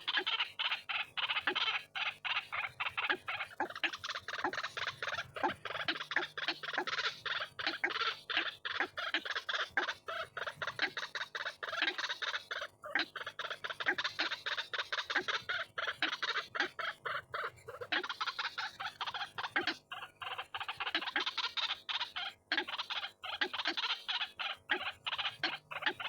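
White-breasted waterhen calling: a fast, unbroken run of harsh repeated notes, about five a second, that swells and eases in waves.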